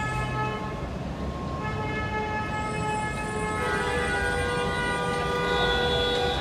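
R142 subway train's electric propulsion running over a low rumble, its whine made of several steady tones at once that shift in steps about a second and a half in and again past three and a half seconds.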